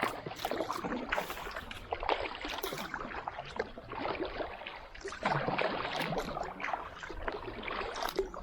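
Kayak paddle strokes splashing and churning water, over and over, as the boat is paddled hard through fast current; the strokes get louder about five seconds in.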